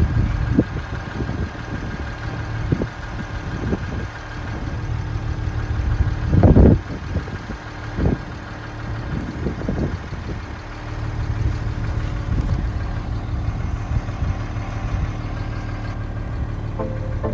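An engine idling steadily, with a few sharp knocks or thumps, the loudest about six and a half seconds in.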